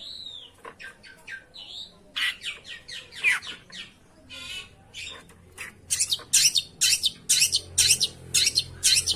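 Long-tailed shrike calling: a mix of varied chirps and whistled notes, then from about six seconds in a run of loud, harsh rasping notes, about three a second.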